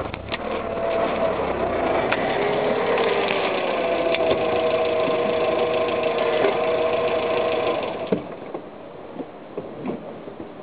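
Car engine running close by with a steady whine and scattered clicks and crackles as the tyre presses down on the cheese; the engine sound stops abruptly about eight seconds in.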